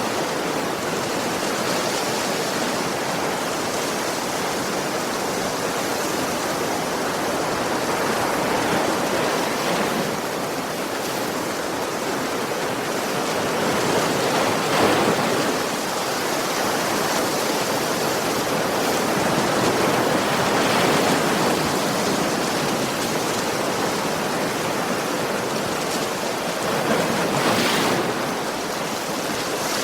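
Ocean waves breaking and washing on a beach, a steady rush of surf that swells a little as each wave comes in, about three times.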